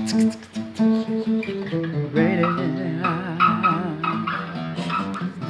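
Acoustic guitar playing a slow run of notes. About two seconds in, a wordless vocal line with vibrato joins it.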